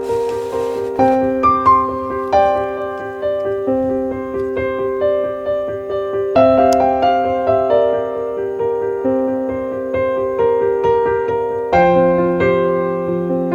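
Background music: gentle piano playing sustained chords with a slow melody.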